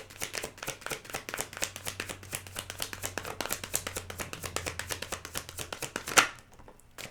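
A tarot deck being shuffled by hand: a fast run of card flicks, about eight a second, ending in one louder slap of the cards about six seconds in.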